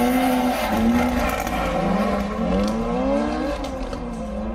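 Drift car engine revving hard, its pitch rising and falling again and again as the car is thrown through a drift.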